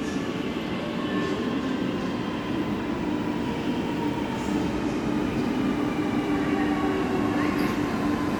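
Lucknow Metro train running: a steady rumble of the carriage with the whine of its electric traction motors, several whining tones drifting slowly in pitch.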